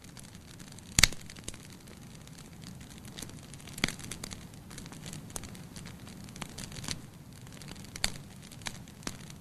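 Wood fire crackling in a fireplace: scattered sharp pops and snaps over a steady low rumble of burning, with the loudest pop about a second in and others around four and eight seconds.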